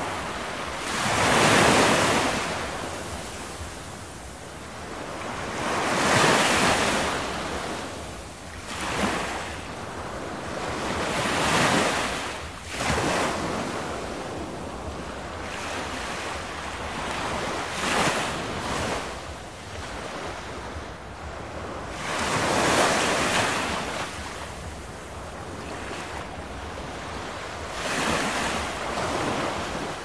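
Ocean waves washing onto a shore. A surge of surf rises and falls about every five seconds over a steady hiss.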